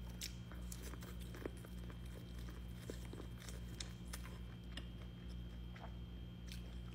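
Bites and chewing on a piece of Wingstop corn on the cob: scattered crunches of kernels and wet mouth clicks, over a steady low hum.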